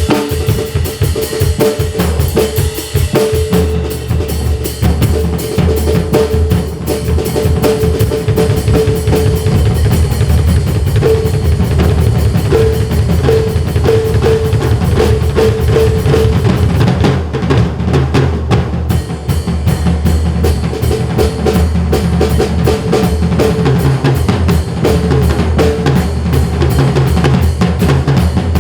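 Drum kit played solo in a fast, dense drum sanjo, with rapid strokes on bass drum and snare running without a break.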